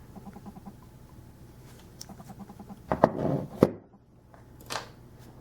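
Handling noise from a 1/50 scale diecast model truck: a few small clicks and knocks, the loudest about three seconds in, as its little compartment doors and parts are worked by hand.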